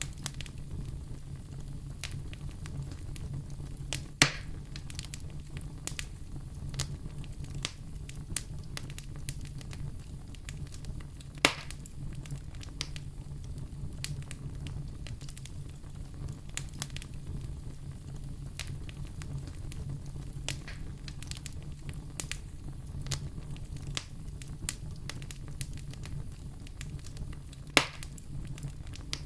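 Wood fire in a fireplace crackling, with a steady low rumble beneath a constant scatter of small snaps. Three louder pops stand out: a few seconds in, about midway, and near the end.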